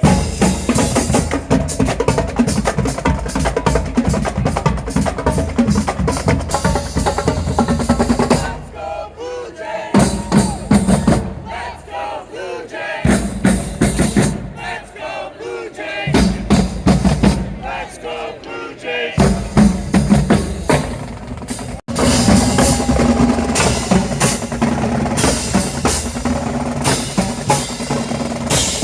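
Drums beaten in a loud, driving rhythm among a cheering crowd of fans, with voices mixed in. The drumming drops back briefly several times.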